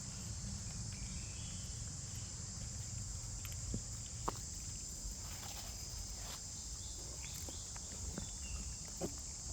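A steady, high-pitched insect chorus buzzing without a break, over a low outdoor rumble, with scattered faint clicks and a few short chirps.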